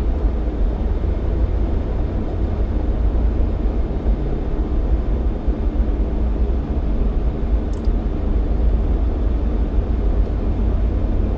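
Steady low rumble of a Jeep Cherokee XJ driving on a snowy road, engine and tyre noise blended together, with a faint tick about eight seconds in.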